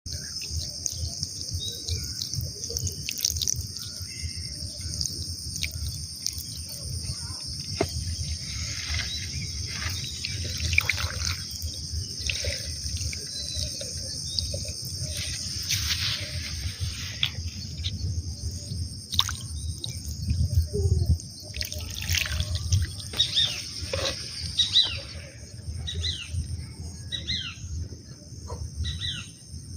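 Outdoor ambience: birds chirping in short calls over a steady high-pitched insect drone, with a low rumble underneath.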